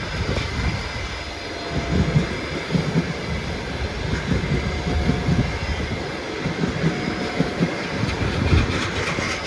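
Passenger train passing at speed: the coaches roll by with a steady rumble and hiss, and the wheels knock irregularly over the rail joints.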